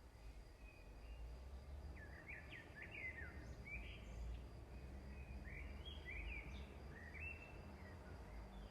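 Faint bird chirps: a run of short, quick calls that slide up and down in pitch through the middle of the clip, over a low steady hum.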